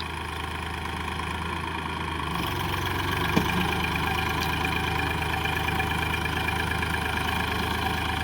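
Massey Ferguson 7250 DI tractor's three-cylinder diesel engine running steadily. Its note rises a little about two seconds in, and there is one short click a little later.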